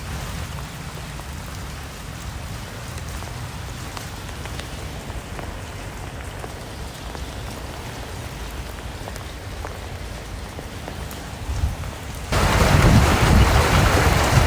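Steady light rain with faint scattered drop ticks. About twelve seconds in it cuts suddenly to a much louder, denser rushing noise.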